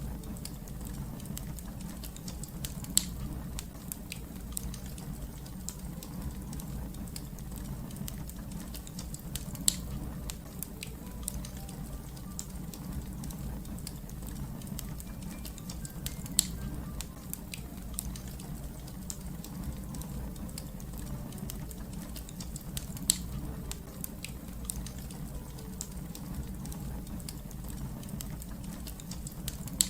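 Wood fire crackling: a steady low rumble of burning with constant small snaps, and four louder sharp pops spread evenly through it.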